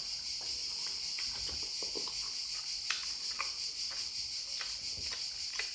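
Steady, high insect chirring, like crickets, with scattered faint clicks over it.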